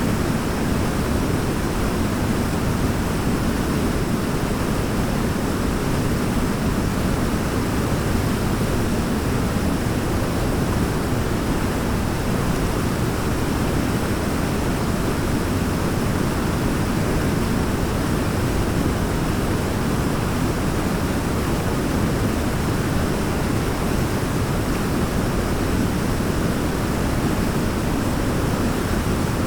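Waterfall rushing in an unbroken wash of water noise, heaviest in the low range, with no change in level.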